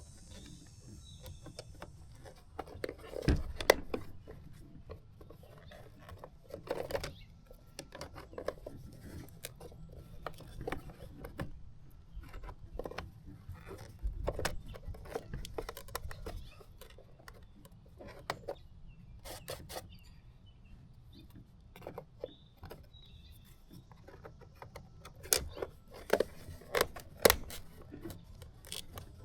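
A plastic tail-light piece rubbed back and forth on 120-grit sandpaper on a tabletop, irregular scratching with scattered clicks and knocks of the plastic parts being handled and test-fitted.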